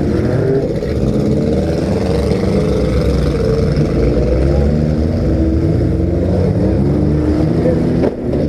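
Several compact-car engines running and revving at once, their pitches rising and falling over one another as the cars push and manoeuvre.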